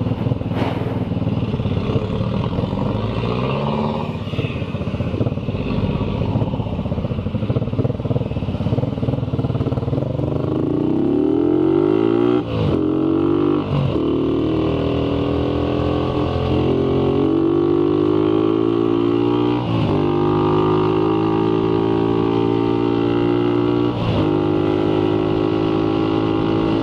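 Motorcycle engine heard from the rider's position, running at low revs for about ten seconds, then accelerating with its pitch climbing. The climb is interrupted by gear changes, one about two seconds later, another soon after, and two more further on.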